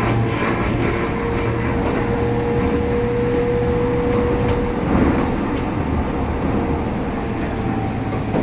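Interior running noise of a Keio Line / Toei Shinjuku Line through-service commuter train under way: steady wheel-on-rail rumble and motor hum, with a steady high tone for a few seconds that stops about five seconds in.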